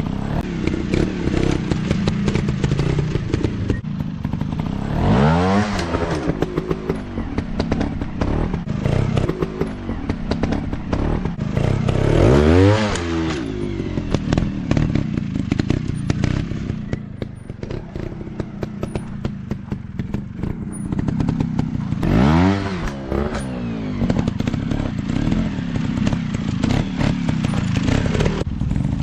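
Off-road motocross bike engines running, with a rapid crackling exhaust. Three times, about five, twelve and twenty-two seconds in, a bike's engine pitch rises and then falls again as it revs up and backs off.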